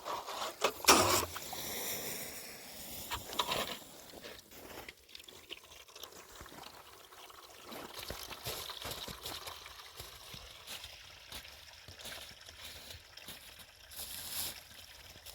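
Water trickling and splashing, with a sharp knock about a second in.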